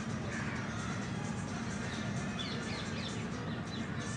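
Birds calling with repeated short chirps, over a steady low hum.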